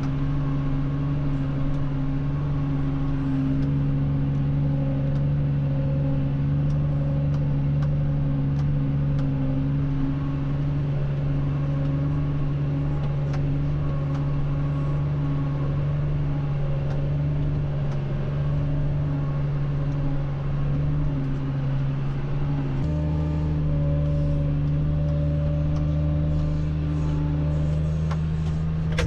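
Tractor engine running steadily under load while pulling a plough, a constant low drone; about three-quarters of the way through its tone changes abruptly to a slightly different pitch.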